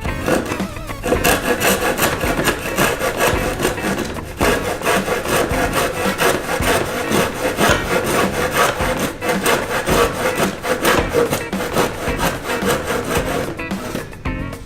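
Rhythmic rasping and rubbing, like a parcel's packaging being scraped or cut open, over background music.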